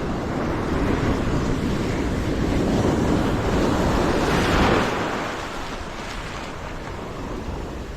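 Ocean surf washing on a beach, one wave swelling to its loudest about four and a half seconds in and then easing off, with wind buffeting the microphone.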